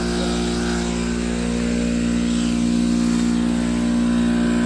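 A motor running steadily, an even hum that holds the same pitch throughout.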